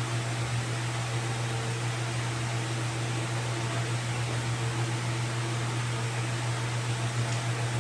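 A steady low machine hum with an even hiss over it, like a fan running.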